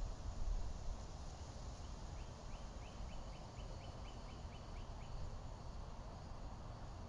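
A bird calling in the background: a run of about ten short, high, downward-sliding notes, roughly three a second, over a steady low rumble.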